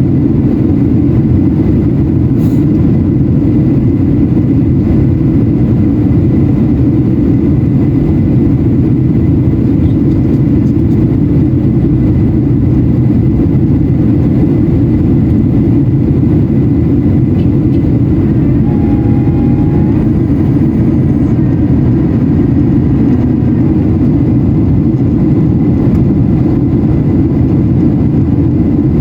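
Steady cabin noise inside a Boeing 737-800 during descent: a loud, even low rumble of its CFM56-7B jet engines and airflow over the fuselage, with faint steady tones above it.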